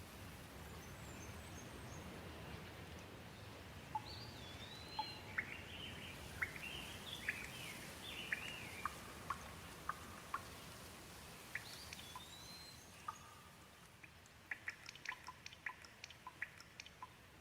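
Gentle rain falling steadily while a bird calls in a run of short, curved chirps. The rain thins near the end, leaving a quick scatter of single drops dripping and ticking.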